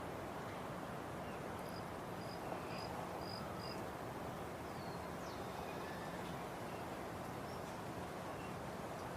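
Steady outdoor insect hiss, with a run of about five faint high peeps that grow louder a couple of seconds in, and a couple of short falling whistles a little later.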